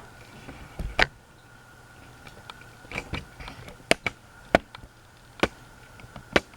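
NuTone Hacienda ceiling fan running with a faint steady hum, broken by sharp clicks at uneven intervals of about a second, five or so in all.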